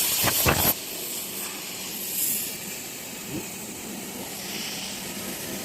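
CNC plasma cutting torch cutting metal: a steady hiss, with a louder crackling burst in the first second.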